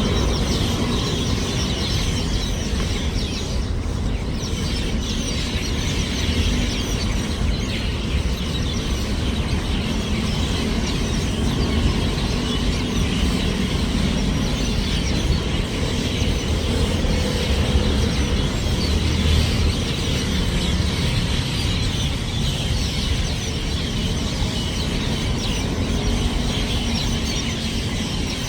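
A large flock of small birds chirping and chattering together in a tree, many calls overlapping into a continuous din, over the steady low rumble of city traffic.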